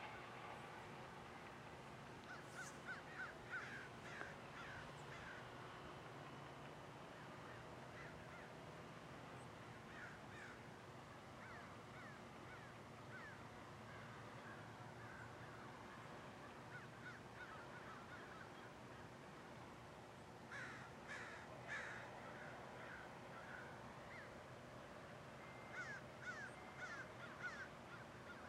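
Birds calling in a few bouts of quick, short, chirpy notes, over a faint steady background hum.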